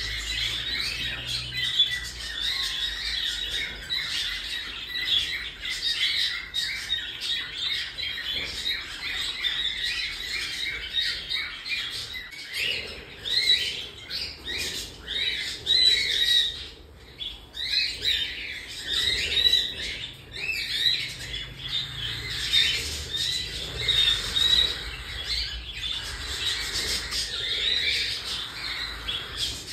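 Baby cockatiels calling nonstop in rapid, overlapping squawks and chirps, with a short lull about two-thirds of the way through.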